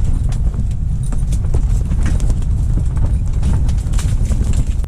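Strong wind buffeting the microphone as a heavy, steady rumble, with many irregular light clicks and taps over it.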